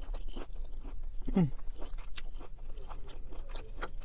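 Close-up mouth sounds of a person chewing a mouthful of cooked green beans, a run of short wet clicks and crunches, with a short falling hum about a second and a half in. Near the end a metal fork scrapes in a plastic food container.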